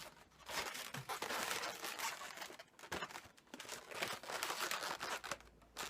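Latex modelling balloons being twisted and handled by hand: irregular rubbery rubbing and crinkling with short clicks, as the balloon squirrel is shaped into its final form.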